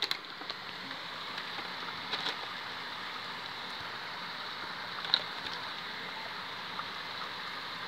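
Steady rain hissing down in a thunderstorm downpour, with a few sharp drip ticks, the clearest about five seconds in.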